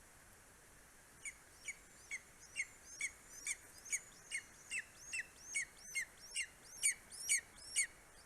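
Greater spotted eagle calling at the nest: a series of about fifteen short, downward-sliding notes, about two a second, starting about a second in and growing louder toward the end.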